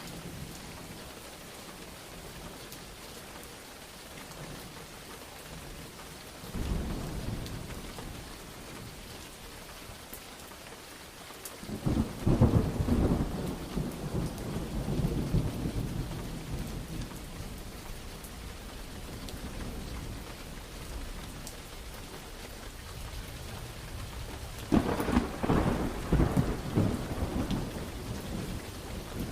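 Steady rain falling, with thunder rumbling three times: a swell about a quarter of the way in, a louder sharp crack that rolls on for several seconds just before the middle, and another rumble near the end.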